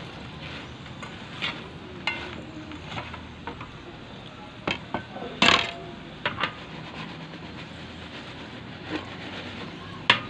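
Potato fries sizzling in shallow oil in a stone-coated nonstick frying pan, stirred with a utensil that knocks and scrapes against the pan several times. The loudest knock comes about halfway through.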